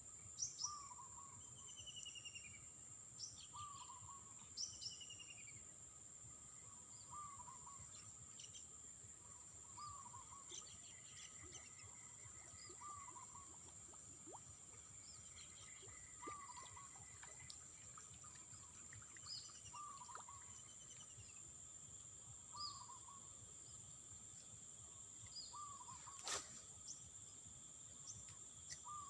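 Faint outdoor wildlife sound: a steady high insect drone, a short call repeating about once a second, and scattered bird chirps. A single sharp click about 26 seconds in.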